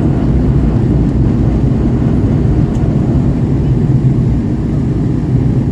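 Bullet train running, a steady loud low rumble.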